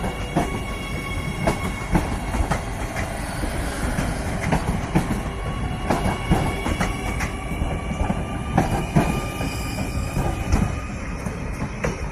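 Adelaide Metro 4000 class electric train running along the platform. Its wheels click irregularly over the rail joints, over a steady high-pitched whine.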